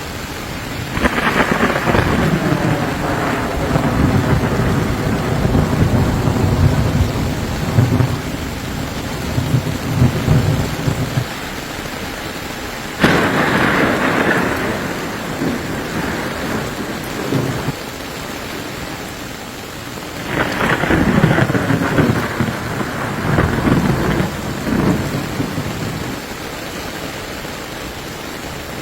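Thunderstorm: steady rain with rolls of thunder. A long rumble builds about a second in, a sudden crack of thunder comes about thirteen seconds in, and another rumble about twenty seconds in.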